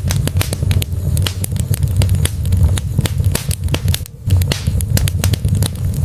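Wood fire burning in a brick fireplace, logs crackling and popping in quick irregular snaps over a low steady rumble of the flames, with a brief lull about four seconds in.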